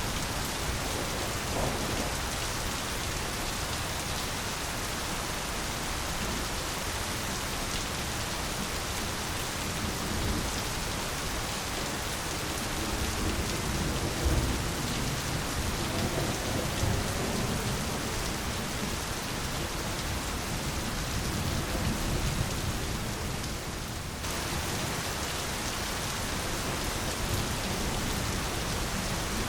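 Steady heavy rain falling, with low thunder rumbling through the middle stretch. The rain briefly dips and comes back abruptly late on.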